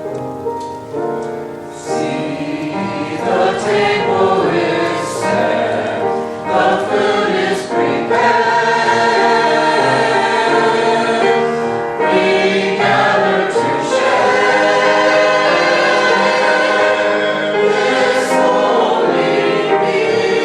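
Choir singing a Christian cantata number to instrumental accompaniment. The singing fills out a couple of seconds in and grows louder and fuller about eight seconds in.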